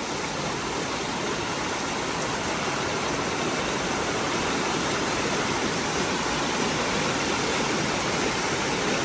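A fast-flowing creek rushing steadily, a dense wash of water noise that grows gradually louder.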